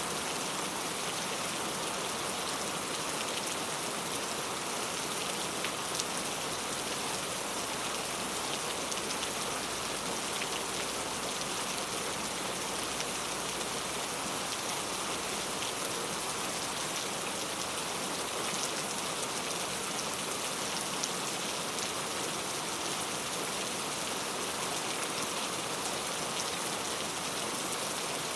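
Heavy rain falling steadily on hard urban street surfaces, a dense even hiss with scattered sharp drop ticks.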